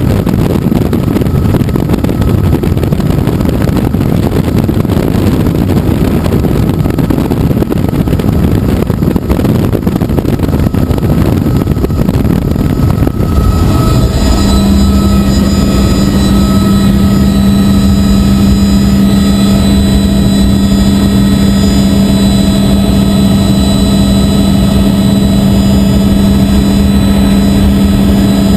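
Helicopter in flight: at first a rough wind rush on the microphone, then, about halfway through, a steady loud hum of engine and rotor with a constant low drone and several steady higher tones.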